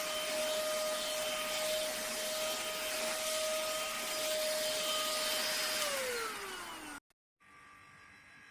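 A cordless handheld vacuum cleaner's motor runs steadily with a high whine and the hiss of rushing air. About six seconds in it is switched off, and its whine falls in pitch as the motor spins down before the sound cuts off abruptly.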